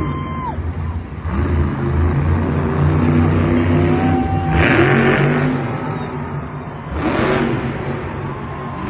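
Monster Jam trucks' big V8 engines running hard and revving as they race, with loud surges of throttle a few seconds apart.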